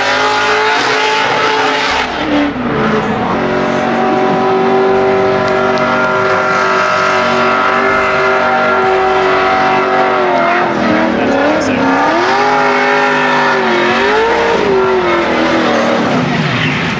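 Drift car engines held at high revs during a drift run, with tyres squealing. The engine pitch holds steady, dips and climbs again about two seconds in, and twice more near the end.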